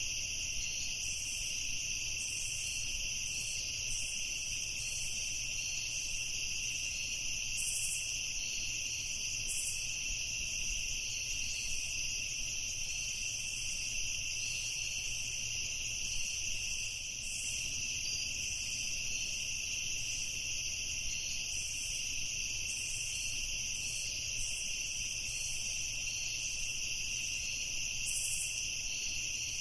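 Night insect chorus of crickets chirping steadily, with a dense high trill and scattered brief higher chirps from other insects.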